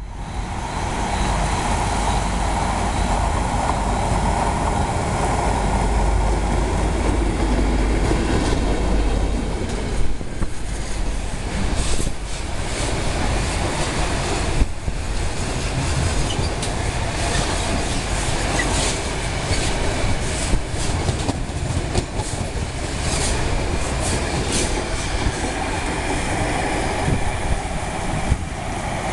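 Freight train passing at speed behind an EMD G22CU diesel locomotive. For the first ten seconds or so the locomotive's engine rumbles heavily as it comes by. After that the container wagons' wheels clatter along the rails with repeated sharp knocks over the joints.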